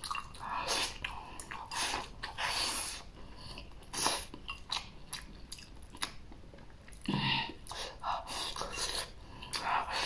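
Close-up eating: a mouthful of stir-fried chopped green chilies and rice being bitten and chewed, with crunching in short, irregular bursts.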